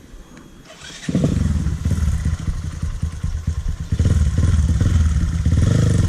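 Dirt bike engine starting about a second in and running with a rapid, even beat, louder from about four seconds in.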